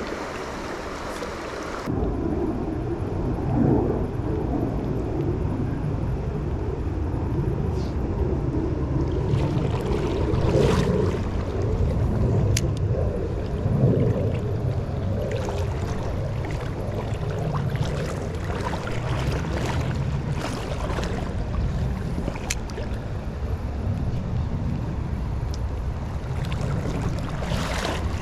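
Flowing river water with a heavy low rumble on the microphone that starts suddenly about two seconds in, and a few light clicks.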